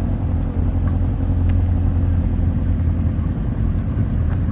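Air-cooled Volkswagen engine running with a steady low rumble as the car rolls in.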